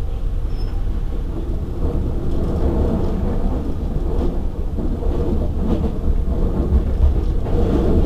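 Steady low rumble of a stationary electric regional train with its equipment running at the platform, mixed with wind buffeting the microphone.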